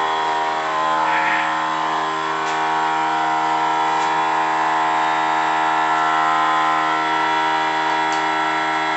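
A steady machine hum at one unchanging pitch, rich in overtones, with a few faint clicks.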